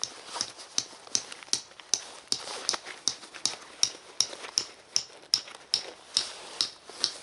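Footsteps walking at a steady pace, about two to three steps a second, each step a short sharp rustle.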